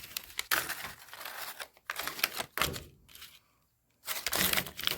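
Paper rustling and crinkling as sheets are handled, in three short bouts with quiet gaps between.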